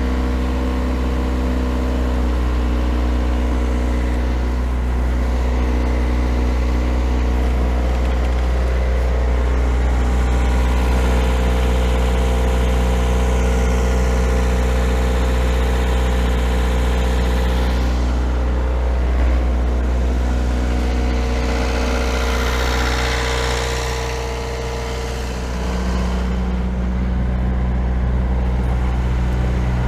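Perkins 4-108 four-cylinder marine diesel engine running steadily, with a brief dip in level and a change in its pitch about three-quarters of the way through.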